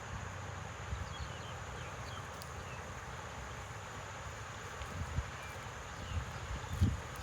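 Steady outdoor rural ambience: an even hiss-like drone, likely insects, with a few faint high chirps and a low rumble of wind on the microphone.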